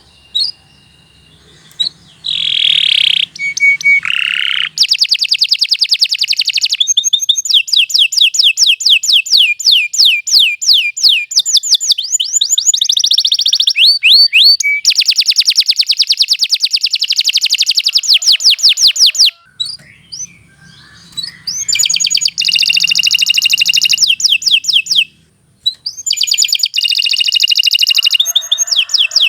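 Domestic canary singing a long song of fast trills and rapidly repeated high notes, broken by two short pauses, about two-thirds of the way through and again near the end.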